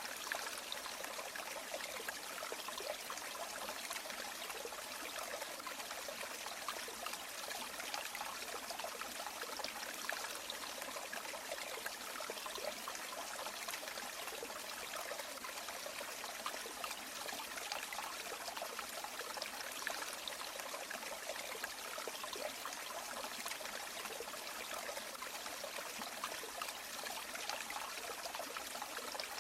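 River water running steadily, a continuous rushing and babbling flow with small splashes all through.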